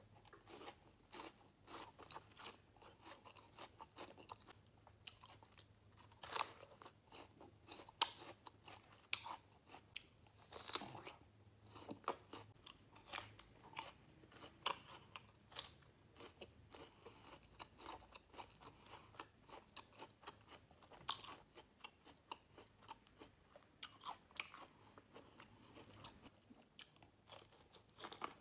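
Close-miked crunching and chewing of crisp rose apple (wax apple) flesh: irregular sharp crunches every second or two over softer wet chewing.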